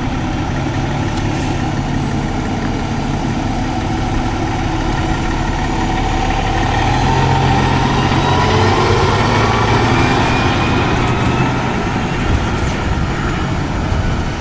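Heavy emergency-vehicle truck engine idling, then rising in pitch and getting louder for several seconds in the middle before easing. A short sharp hiss or click comes near the end.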